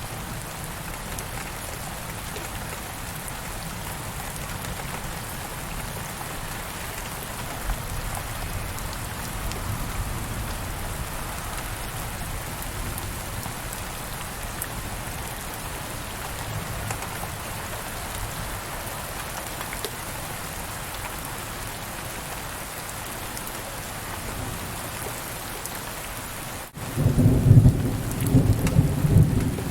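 Steady rain falling. Near the end a loud, low rumble of thunder rolls for a couple of seconds.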